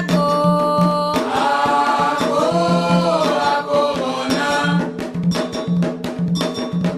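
Candomblé Ketu ritual music for Xangô: voices singing long held notes over hand drums and a struck metal bell. The singing stops about two-thirds of the way through, and the drums and bell play on alone.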